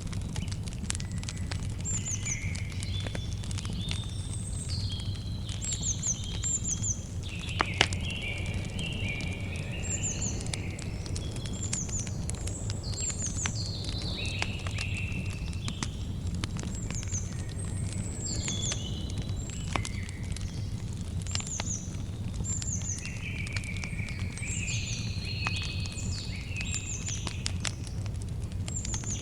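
Wood campfire crackling with scattered sharp pops, the loudest a pair about eight seconds in, over a steady low rumble. Small birds sing repeated short chirping phrases throughout.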